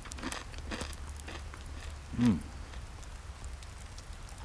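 A person chewing crispy fried bacon, with faint crunching and crackling, and a short falling "mm" of enjoyment about two seconds in.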